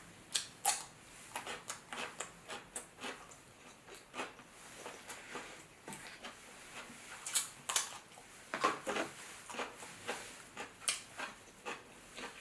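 Close-miked eating of seafood-boil crab: irregular soft clicks and crackles of crab shell being handled and picked apart, with chewing.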